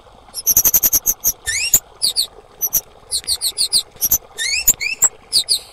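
Female kemade calling: dense clusters of sharp, high chirps, with quick upward-sweeping whistled notes among them.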